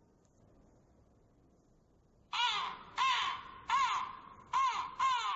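Crow cawing: a quick series of harsh caws, about one every three quarters of a second, starting a little over two seconds in, five caws in all.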